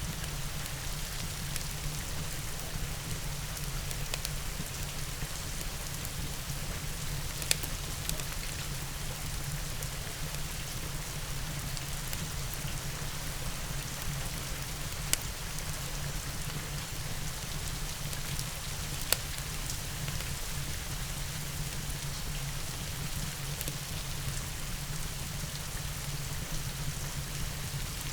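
Steady rain with a low rumble beneath it, broken by a few isolated sharp pops of a crackling wood fire, three of them standing out at uneven intervals.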